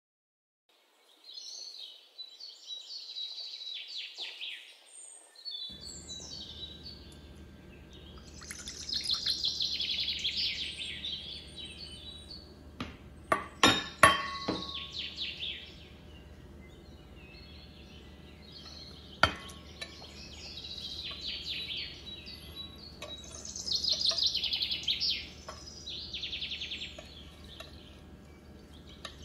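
Songbirds chirping and trilling in repeated phrases over a low steady hum. About halfway through comes a cluster of sharp clinks on a glass mixing bowl, the loudest sounds, and one more clink a few seconds later.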